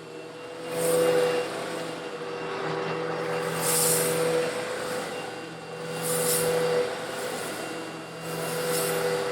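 Old Eureka vacuum cleaner running with a steady motor hum while sucking up coarse stone granules. A hiss of grit swells about every two and a half seconds as passes of the nozzle pull in more granules.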